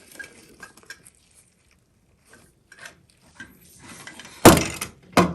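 Small hard faucet parts being handled: scattered faint clicks and light clinks, then a loud sharp clack about four and a half seconds in and another just before the end.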